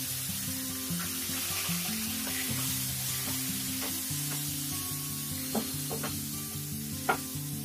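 Onion and spice masala sizzling in oil in a nonstick pan while a flat spatula stirs it, with a few sharp taps of the spatula on the pan in the second half.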